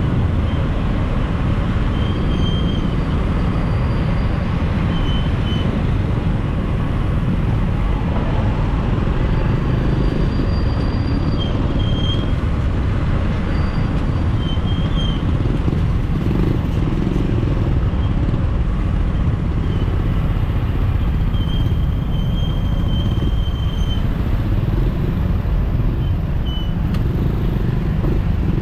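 Steady city road traffic, with cars and motorcycles running around a bicycle on the move, under a heavy low rumble.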